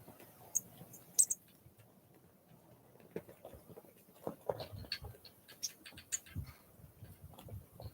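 Small wild birds at a feeder, tapping and pecking irregularly. A few sharp, high clicks about a second in are the loudest sounds, and a busier run of taps follows in the middle.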